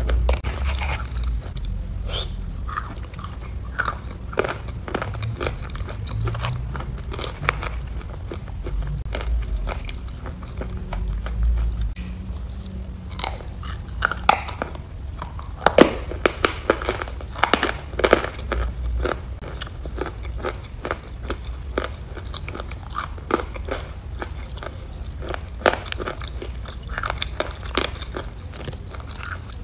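Close-miked eating sounds: bites and crunchy chewing from spoonfuls of a white food, a steady stream of sharp crunches and clicks that grows busiest around the middle.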